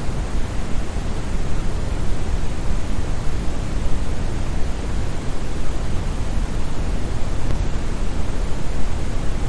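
Steady brown noise, a synthetic rushing hiss weighted toward the bass, like a great waterfall heard from a distance, with no change in level.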